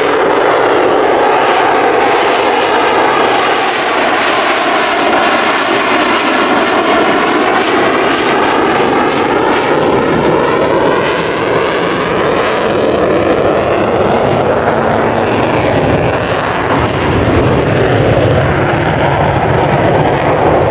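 Airplane engine noise as an aircraft flies past overhead: a loud, steady roar whose tone slowly sweeps up and down as it passes.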